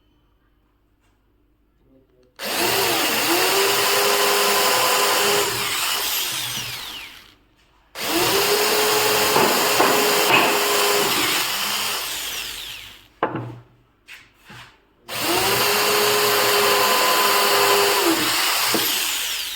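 Electric drill boring into teak wood in three runs of about five seconds each, the motor spinning up at each start and winding down at each stop.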